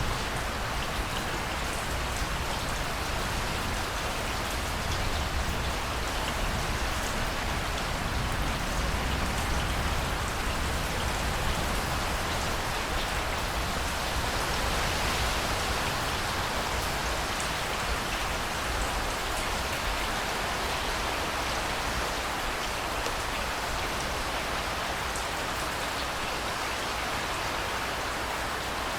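Steady rainfall pattering on a surface, an even hiss with scattered individual drop ticks.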